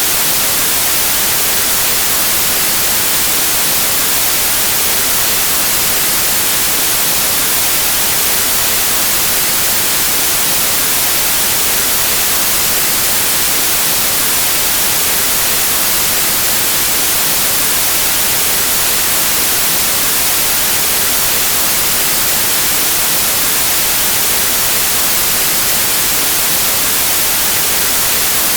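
Steady white noise: an even, unchanging hiss like radio static, brightest in the high treble.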